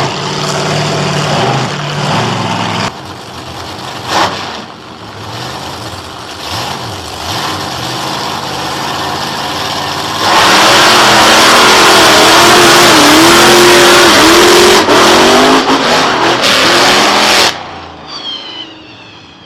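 Monster truck engine running, then revving hard and very loud for about seven seconds with its pitch rising and dipping; the sound cuts off abruptly near the end.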